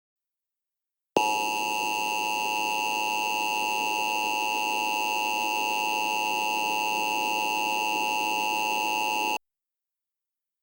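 Emergency Alert System attention signal: a steady electronic alert tone that starts about a second in, holds for about eight seconds and cuts off suddenly. It marks the start of an emergency warning broadcast.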